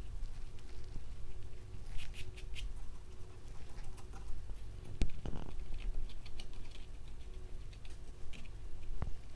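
Light scattered tapping and clicking of small objects being handled, with two sharper knocks, one about halfway through and one near the end, over a low steady hum.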